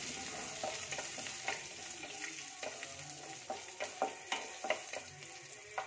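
Whole spices and cashews sizzling in ghee in a kadai, with a steady hiss of frying. A wooden spatula stirring them scrapes and taps the pan every so often.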